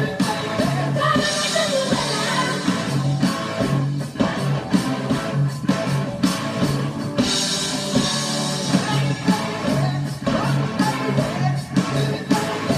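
Rock song with a lead vocal over electric guitar, bass and drum kit, playing continuously.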